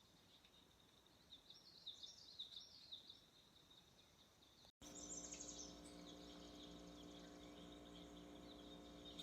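Faint birds chirping in short high calls. Just under five seconds in, the sound cuts out briefly and comes back with a steady low hum under the chirps.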